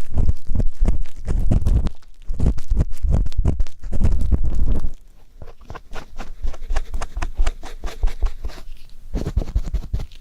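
Ear pick scraping and rubbing in ear-cleaning ASMR. It starts as loud, muffled, bass-heavy rustling, and about halfway through turns into lighter, crisp scratching and clicking.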